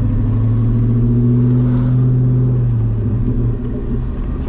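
Straight-piped C6 Corvette's LS2 V8 heard from inside the cabin while driving, a loud steady low drone under throttle that eases off about three seconds in.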